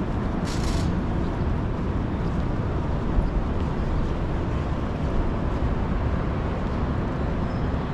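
Steady low rumble of city street traffic, with one short hiss about half a second in.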